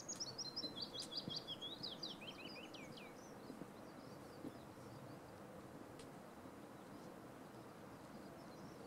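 A small songbird sings one song of about three seconds, a quick run of high notes stepping down in pitch, over a steady low rush of outdoor background noise.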